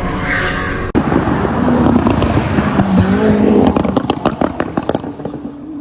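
Koenigsegg Jesko's twin-turbo V8 running hard on a race track, its pitch rising as it accelerates about three seconds in, followed by a quick run of sharp cracks before the sound eases off near the end.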